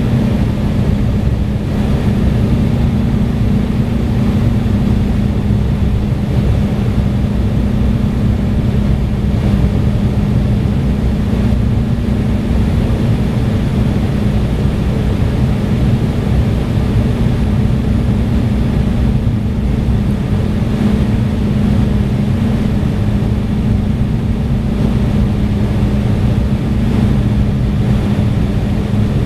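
Steady jet cabin noise inside an Embraer E175: the rush of air and the drone of its GE CF34 turbofans, with a steady low hum and no change in level.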